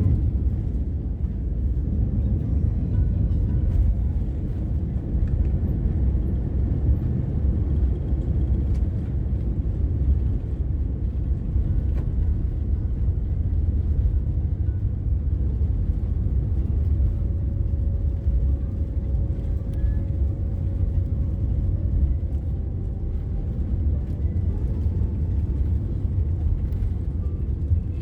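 Steady low rumble of an airliner's cabin noise, the jet engines and airflow heard from inside the cabin. A faint steady whine joins it for a few seconds past the middle.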